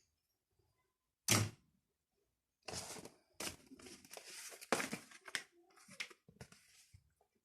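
Paper and stationery being handled at a desk: a single sharp tap about a second in, then several seconds of paper rustling broken by quick clicks and taps, dying away near the end.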